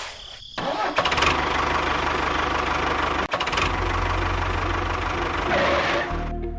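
A small engine running with a fast, even pulse, briefly cut off a little over three seconds in. Near the end it gives way to music.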